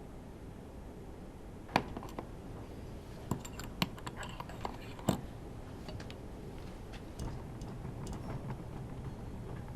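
Scattered clicks and metallic knocks of hand tools and parts being handled while a Honda V10 F1 engine is taken apart. There are about four sharper knocks, the loudest about two seconds in, with lighter ticks between, over a low steady hum.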